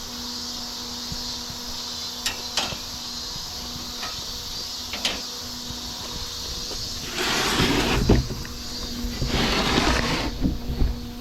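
Steady low hum of the small fans in an air-conditioned work jacket, with a few sharp clicks in the first five seconds and two louder bursts of rustling and handling noise about seven and nine seconds in.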